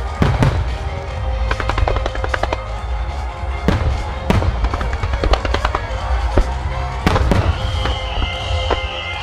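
Fireworks shells bursting in a run of sharp bangs and crackles, some single and some in quick clusters, over the show's theme music, whose steady held notes play throughout.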